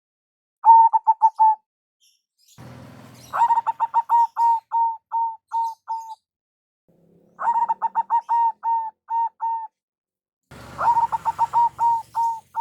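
Zebra doves (perkutut) cooing in repeated bouts of short notes that start fast and then slow and spread out, four bouts in all. A faint low rumble sits under the second and last bouts.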